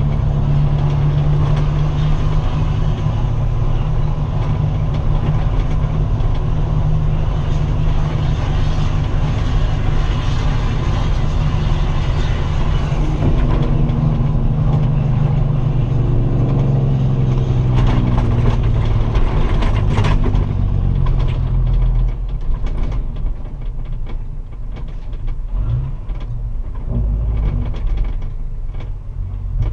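Straight-piped Kenworth semi truck's diesel engine running loud through its open exhaust; from about 13 seconds in its pitch falls steadily, and after about 22 seconds it is quieter and uneven.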